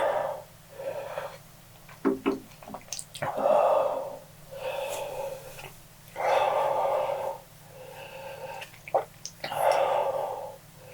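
A person breathing hard and noisily through the mouth, taking long rasping breaths in and out every second or so, with small mouth clicks between, as he reacts to the burn of the extremely hot One Chip Challenge chip.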